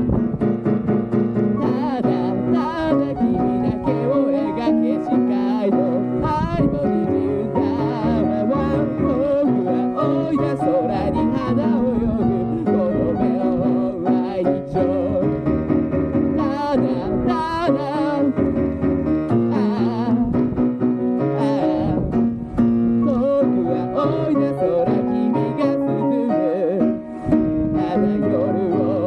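A solo singer singing a Japanese pop song and accompanying themself on guitar, with a steady strummed and plucked chordal backing under the voice.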